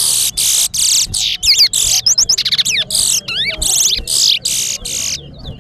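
Caged towa-towa (chestnut-bellied seed finch) singing a long, rapid song of loud, high whistled and buzzy notes in quick succession. The song stops about five seconds in, leaving fainter chirps. It is a song in a towa-towa singing race, where each completed song is counted.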